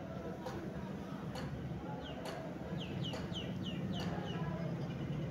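A bird calling: a quick run of about eight short, high, falling chirps in the middle, over a steady low hum and a faint click about once a second.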